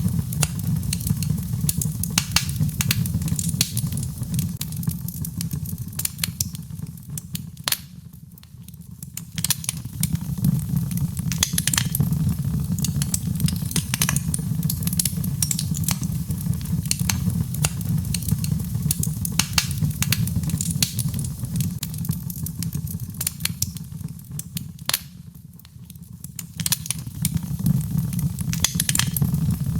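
Birch logs burning in a fireplace, crackling with frequent sharp pops and snaps over a steady low rumble of the flames. The sound dips briefly twice, about eight seconds in and again near the end.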